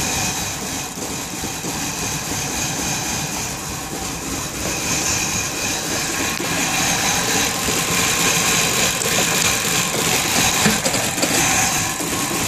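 1994 BMW 840Ci's V8 engine running rough at idle, misfiring badly just after a hard start.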